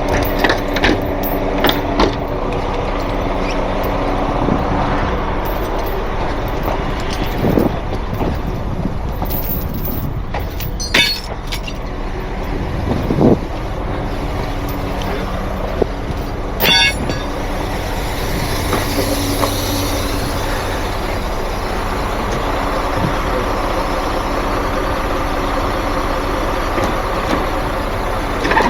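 Heavy diesel truck engine idling steadily, with a few sharp metal clanks and a brief rattle about two-thirds of the way through.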